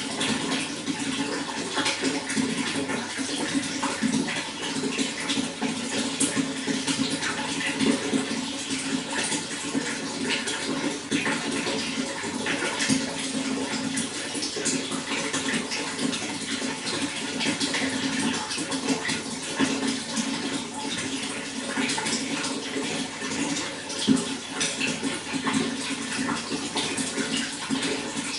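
Running water, flowing and splashing steadily, with a dense patter of small droplet splashes over a low rushing tone.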